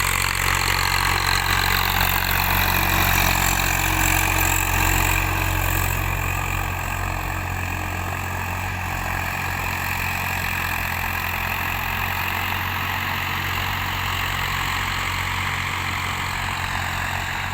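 Diesel tractor engine running steadily, a little quieter after about six seconds.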